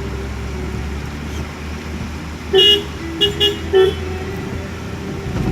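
Vehicle horn sounding four short beeps, the first about two and a half seconds in and the others in a quick run right after. Under it is the steady low hum of a vehicle running.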